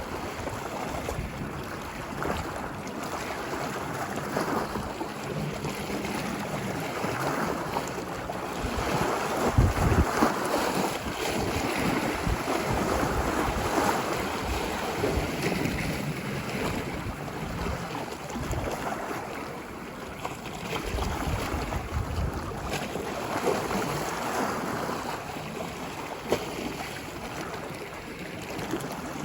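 Ocean surf washing ashore, a continuous wash that swells and eases as waves break, loudest about ten seconds in. Wind buffets the microphone with low rumbles.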